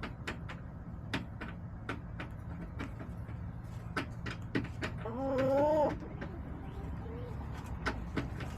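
A backyard hen gives one drawn-out, wavering call about five seconds in, over scattered sharp clicks and a steady low rumble.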